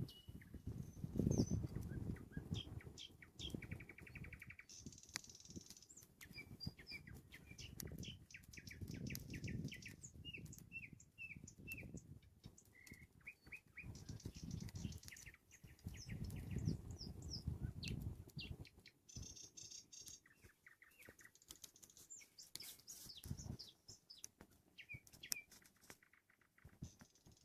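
Nightingale singing: varied phrases of repeated whistled notes, rapid trills and clicking runs, each phrase a few seconds long with short pauses between. Low rumbles come and go underneath, the loudest about a second in.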